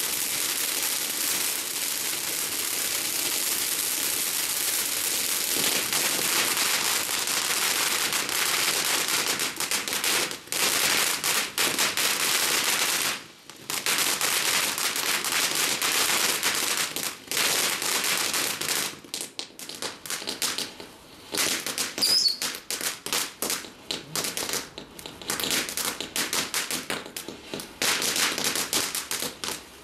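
Fireworks crackling: a dense, continuous crackle and hiss for the first ten seconds or so, then rapid runs of sharp pops and crackles broken by brief gaps.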